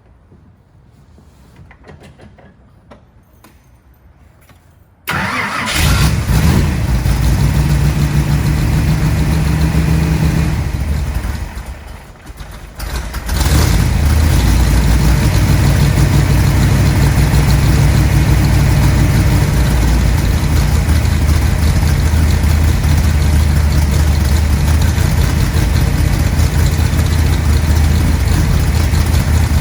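Superformance Mark III Cobra's engine cold-started after sitting several days: it fires suddenly about five seconds in and runs loud. Its level sags briefly about twelve seconds in, then it picks back up and settles into a steady, loud cold idle.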